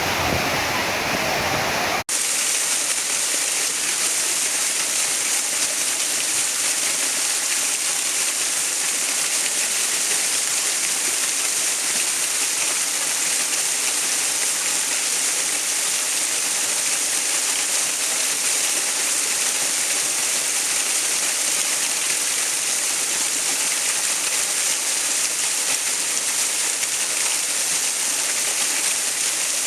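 Steady rushing water, an even waterfall-like hiss with little low rumble. About two seconds in, a fuller, deeper sound cuts off abruptly and this thinner hiss takes over.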